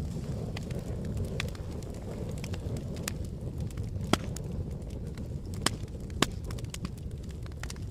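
Campfire burning: a steady low rumble of flames with scattered sharp crackles and pops, the loudest about four seconds in and two more near six seconds.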